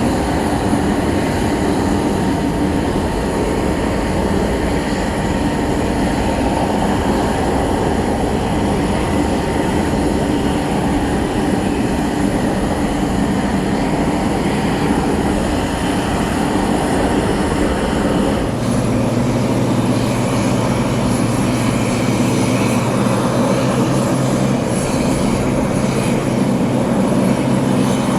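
Aircraft engines running steadily. About two-thirds of the way through the sound changes abruptly to a steadier low hum.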